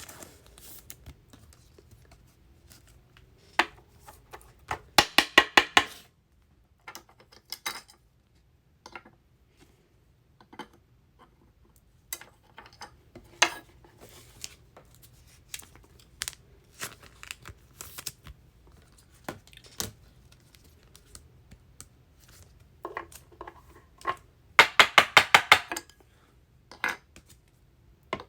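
Trading cards and their packaging being handled: scattered light clicks and taps, with two bursts of rapid clicking, one about five seconds in and one near the end.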